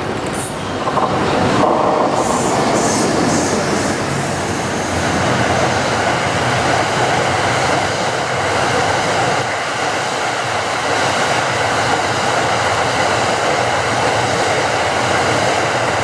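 A train of E26 series Cassiopeia sleeper coaches hauled by an EH500 electric locomotive runs past, making a loud, steady rolling noise of wheels on rail with clickety-clack from the rail joints. The noise swells about a second in and then holds.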